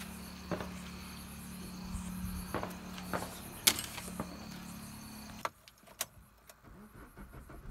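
Suzuki DDiS four-cylinder diesel engine running steadily with a low rumble, overlaid by a few sharp clicks; the running sound stops abruptly about five and a half seconds in, leaving only faint clicks.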